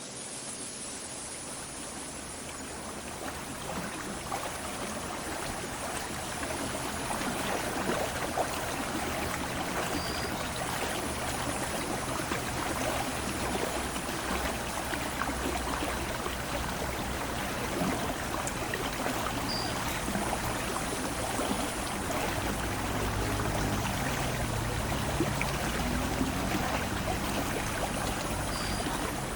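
Aare river water flowing steadily, a continuous rushing. A low rumble grows stronger in the last third, and three short, high peeps come about ten seconds apart.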